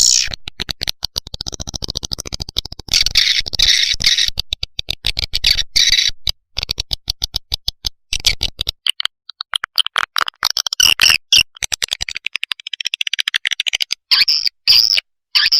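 Edible-nest swiftlet calls: a dense, fast run of high twittering chirps and clicks with short breaks. This is a lure call recording, played to draw swiftlets into a nesting house.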